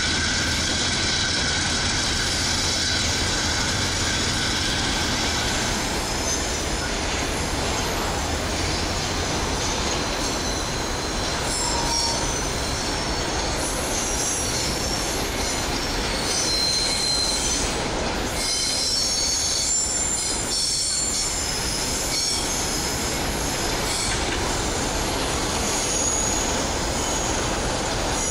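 Freight train of hopper wagons rolling past with a steady rolling noise, steel wheels squealing high-pitched on and off as the wagons take the curve.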